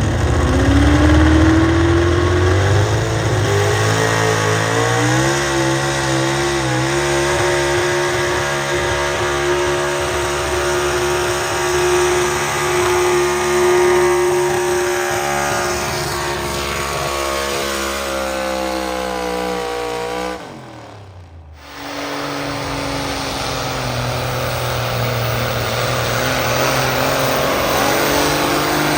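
A pulling vehicle's engine running at high revs under full load down the track, its pitch climbing and then holding steady before falling away as the run ends near twenty seconds in. After a short break, an engine runs steadily again.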